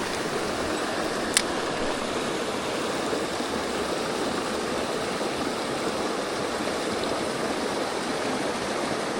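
Mountain stream water running steadily, with one brief sharp click about a second and a half in.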